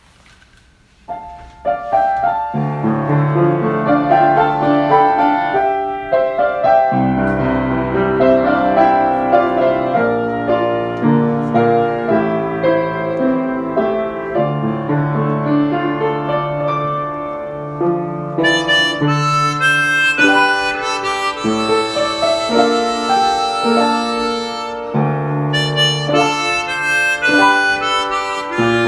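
Harmonica playing a slow, sustained melody over a chordal backing accompaniment; the music starts about a second in and turns brighter about two-thirds of the way through.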